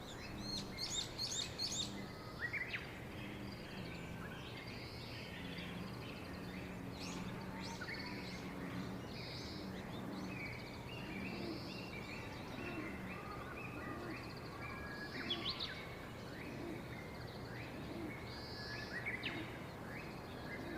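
Several wild birds chirping and calling in short, repeated calls, fairly faint, over a low steady hum of outdoor background noise.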